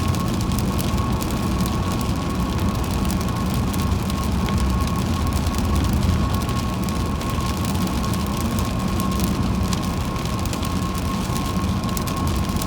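A car driving on the highway in rain: a steady low road and engine rumble, with many quick ticks of raindrops hitting the car and a thin steady whine above it.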